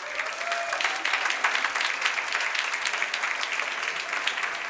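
Theatre audience applauding, a dense steady patter of many hands clapping.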